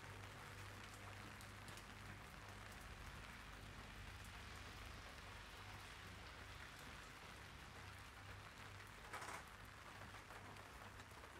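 Faint light rain pattering on an umbrella, a steady soft hiss of drops, over a low steady hum. A short louder spatter comes about nine seconds in.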